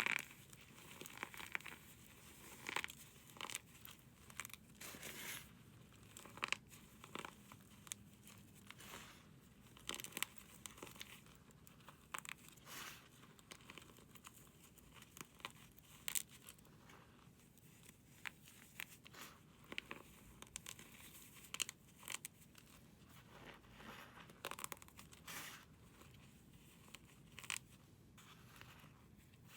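Close-up crunching and crumbling of a dry, brittle material being crushed by hand: an irregular run of small crackles with a few sharper, louder crunches scattered through it.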